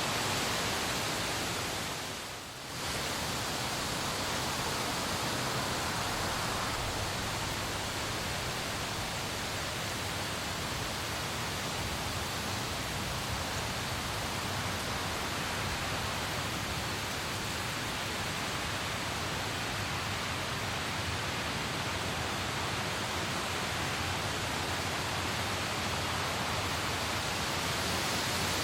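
Steady rain falling, an even hiss, with a brief dip in level about two and a half seconds in.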